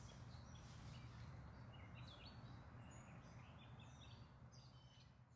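Faint woodland birdsong, many short chirps over a low steady background rumble, fading out near the end.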